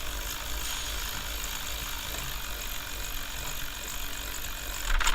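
Power ratchet spinning a spark plug down into its thread in a steady whir, a little louder for a moment near the end. The plug was first started by hand.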